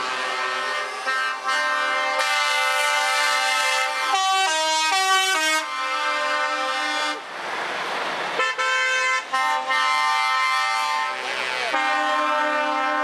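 Truck air horns blaring in long, overlapping blasts at several pitches. About four seconds in, one horn steps quickly up and down between pitches. A short burst of noise comes near the middle.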